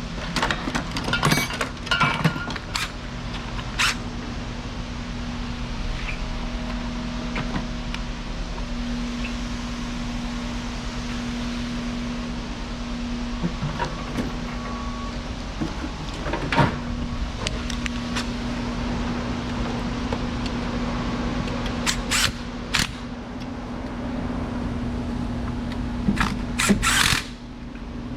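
Metal hand tools clicking and knocking at intervals while parts are bolted back onto an engine, over a steady low hum.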